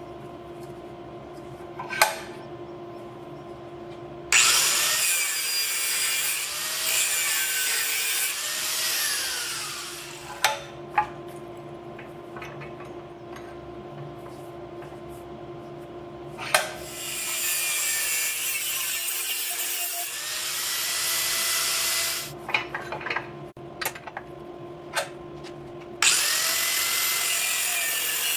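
A power tool working against a workpiece in three bursts of about five or six seconds each. A steady machine hum runs throughout, and a few sharp knocks fall between the bursts.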